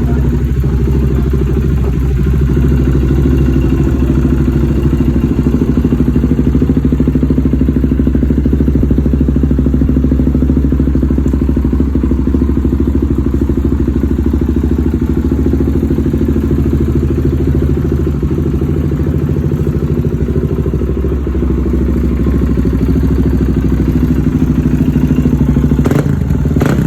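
Suzuki DRZ-400SM single-cylinder four-stroke engine running steadily at idle through an aftermarket MRD Racing exhaust. A short knock comes near the end.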